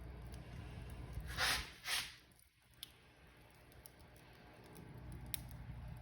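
Wood fire crackling in a fireplace over a low steady rumble, with two louder crackles close together about a second and a half in and a few sharp snaps after. The rumble drops away briefly after the crackles, then gradually returns.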